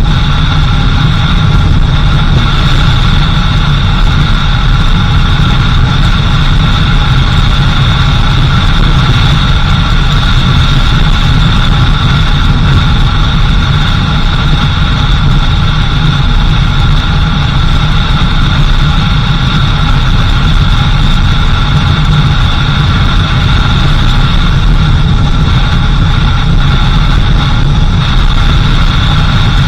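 Four-wheel-drive vehicle's engine running steadily while driving, a constant low rumble with steady high-pitched tones above it.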